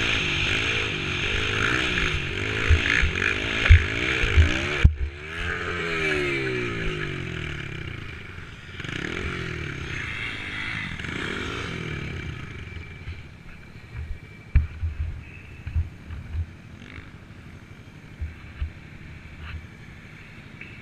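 Dirt bike engine revving up and down, loudest in the first five seconds, then falling in pitch and fading to a quieter drone over the second half, with scattered low thuds.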